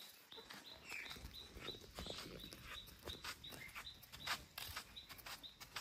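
Faint outdoor ambience with a small bird chirping over and over, about three short high chirps a second, and scattered light clicks.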